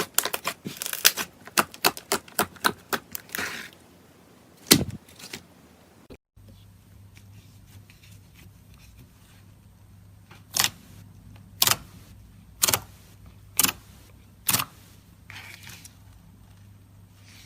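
Slime being handled for ASMR: a quick run of crackling clicks and pops, then after a cut, five sharp pops about a second apart over a faint steady hum.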